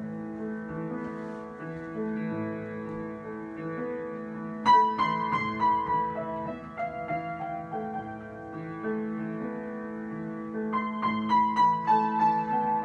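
Solo piano improvisation: soft held chords, then about a third of the way in a louder higher melody enters over them. Near the end the notes come quicker and louder.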